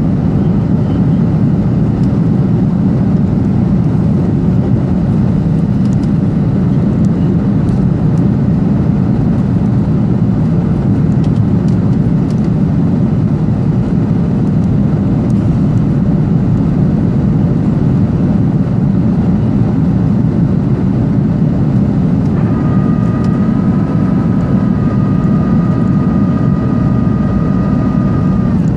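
Cabin noise of a Boeing 737-800 airliner in flight: the steady, loud rush of its jet engines and airflow. About 22 seconds in, a steady whine made of several tones joins it for about six seconds, then stops.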